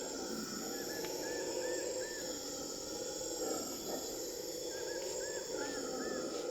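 Tropical rainforest ambience: a steady chorus of insects holding several constant pitches. Over it come two short runs of four or five arched chirps, about a second in and again about five seconds in.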